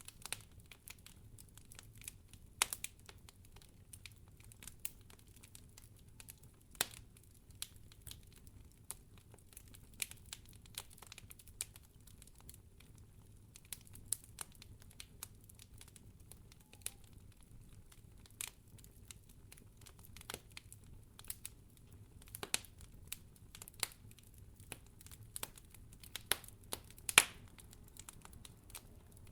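Wood fire crackling in a fireplace: irregular sharp pops and snaps over a faint steady low rumble, with the loudest snap near the end.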